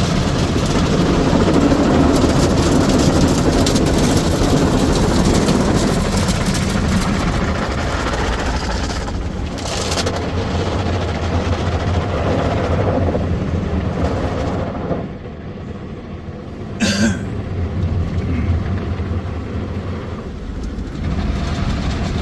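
Ryko Softgloss MAXX 5 soft-touch car wash working over the car, water spray and spinning cloth brushes, heard from inside the cabin over the car's idling engine. The washing noise thins about two-thirds of the way through, and a brief high squeak comes shortly after.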